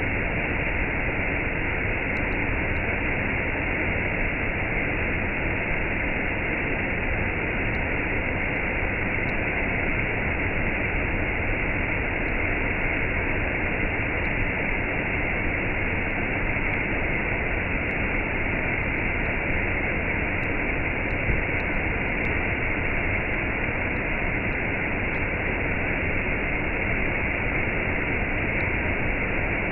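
Waterfall cascade rushing steadily: an even, unbroken wash of water noise with no pitch or rhythm, dull-topped with no treble.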